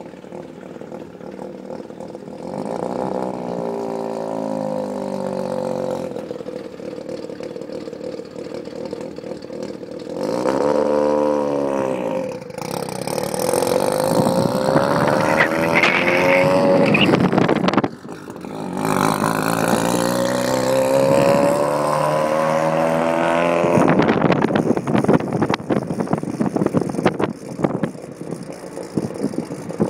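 Mazda RX-7 FC's single-turbo rotary engine accelerating hard through the gears. Its pitch climbs and drops back at each shift several times, with a brief cut about 18 seconds in before it pulls again.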